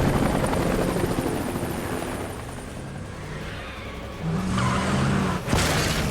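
Helicopter rotor chop mixed with a vehicle engine at speed during a chase. About four seconds in the engine grows louder, and near the end there is a sudden loud rush.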